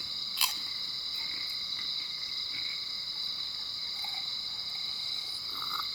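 Steady, high-pitched trilling chorus of crickets, with one short click about half a second in.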